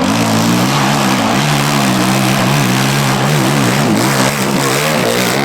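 Dirt bike engine on a hill climb, its revs rising and falling repeatedly as the throttle is worked.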